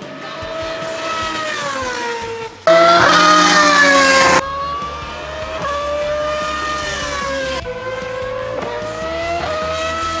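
Racing engines running at high revs, their pitch sliding up and down as they pass. The sound changes abruptly three times, and the loudest stretch comes about three seconds in and lasts under two seconds.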